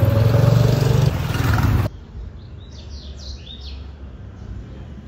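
Loud, dense noise with a strong low hum that cuts off abruptly after about two seconds. Then, at a lower level, comes a quick run of short, high bird chirps over a faint steady hum.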